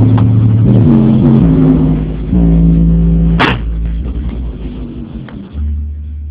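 Bass-heavy music played loud through a car audio system with a 12-inch JBL subwoofer, deep bass notes held and changing in steps. One sharp hit comes about three and a half seconds in.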